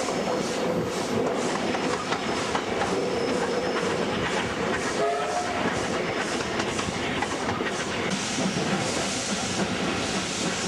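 Two W-class steam locomotives double-heading a train up a steep grade, heard from the carriages: an even run of exhaust beats, a few a second, over the steady rumble and clatter of the train.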